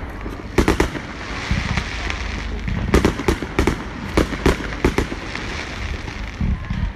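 Fireworks display: aerial shells bursting in irregular clusters, about a dozen sharp bangs over a steady background crackle.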